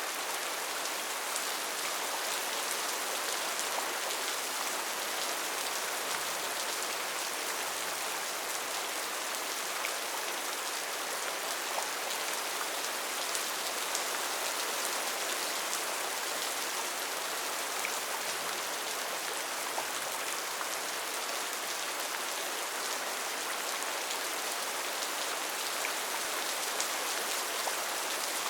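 Steady rainfall on rainforest foliage: an even hiss with faint scattered drop ticks.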